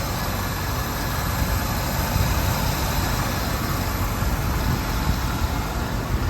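Ford 4.6-litre Triton V8 of a pickup truck idling steadily.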